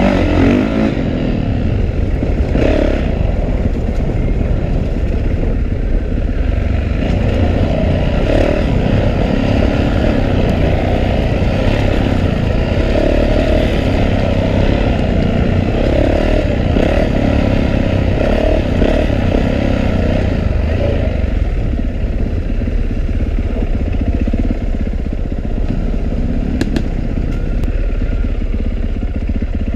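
2012 Yamaha YZ450F's single-cylinder four-stroke engine revving up and down repeatedly as the dirt bike is ridden fast along a trail, over a steady low wind rumble on the helmet-mounted camera.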